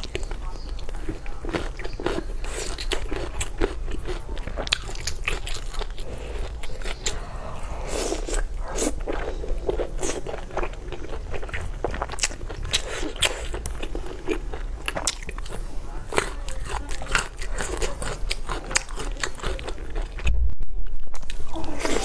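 Close-miked chewing and biting of a person eating red-braised pork belly, with many sharp mouth clicks, picked up by a lapel microphone. There is a brief gap in the sound about 20 seconds in.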